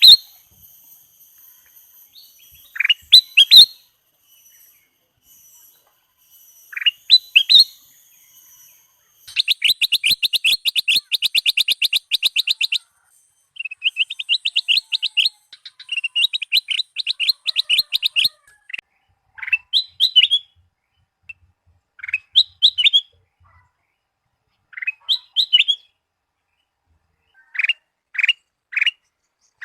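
Kutilang emas (ruby-throated bulbul) singing in short sweeping whistled phrases. About a third of the way in come two long fast chattering runs of rapid repeated notes, about ten a second, and then spaced phrases again.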